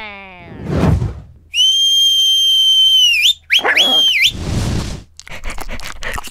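Cartoon whistle sound effects: one long, steady high whistle that dips in pitch as it ends, followed quickly by two short rising whistles. Short noisy bursts come before and after the whistles, and a run of small clicks follows near the end.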